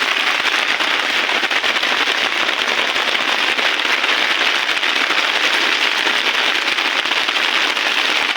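Heavy rain pouring down: a steady, dense crackling patter of drops.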